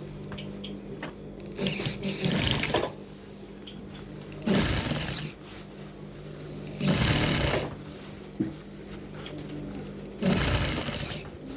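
Electric sewing machine stitching in four short runs of about a second each, stopping between runs, over a steady low hum.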